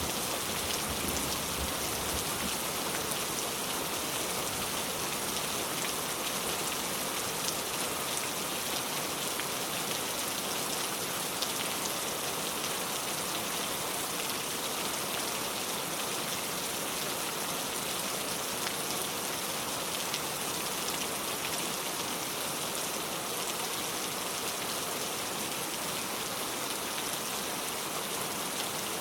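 Steady rain falling on a surface: an even hiss of many drops, with an occasional louder single drop standing out.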